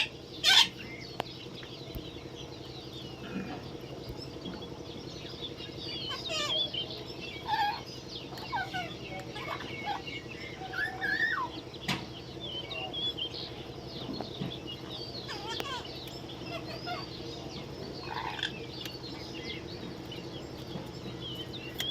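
Parrots chattering, with many short squawks and chirps throughout and a louder screech about half a second in.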